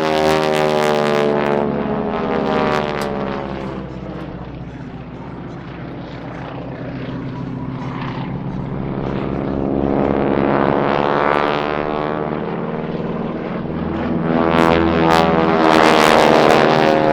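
North American SNJ Texan warbirds' Pratt & Whitney R-1340 radial engines and propellers in aerobatic flight, with the rasp of propeller tips going supersonic. The sound fades about five seconds in, then swells twice as the planes pass close, the pitch sliding down as they go by.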